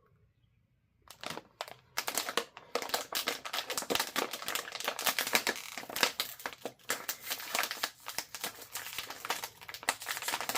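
Plastic potato-chip bag crinkling as it is handled and opened: a few separate crackles about a second in, then dense, continuous crinkling.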